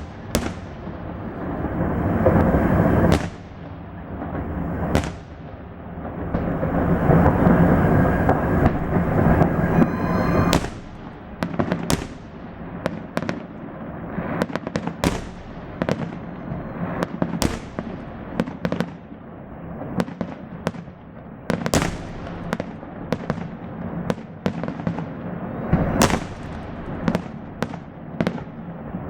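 Fireworks salvo display: dense stretches of overlapping bursts in the first ten seconds, then a long run of separate sharp bangs going off one after another.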